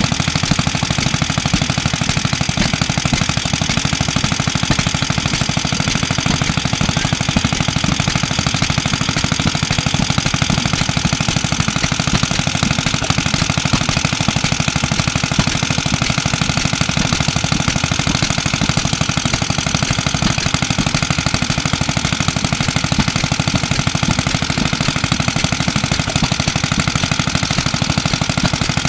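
Clinton Model A-800 2.5 hp air-cooled small engine running steadily at a fast, even firing rate, under the light load of a small air compressor.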